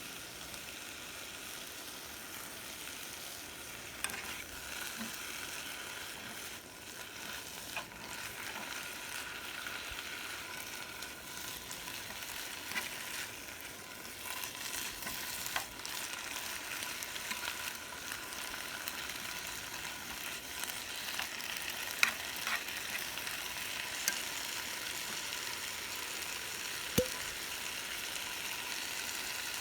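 Cooking over a campfire: a steady sizzling hiss, with a few sharp cracks and pops scattered through it.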